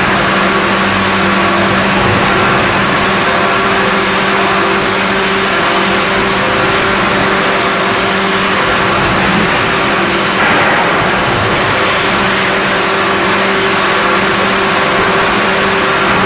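Industrial machinery running steadily in a forging shop: a constant loud hum and drone with a hiss over it, and no separate hammer blows.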